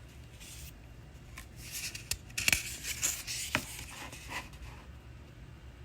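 Rustling paper and a couple of soft clicks as a picture book's page is turned.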